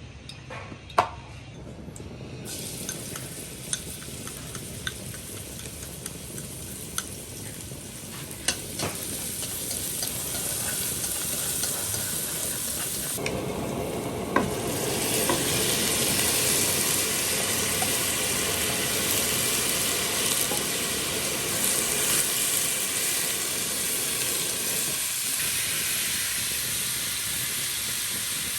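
Food sizzling in hot oil in a pan and being stirred, with occasional sharp taps of the utensil against the pan. The sizzle starts a couple of seconds in and grows louder and fuller about halfway through.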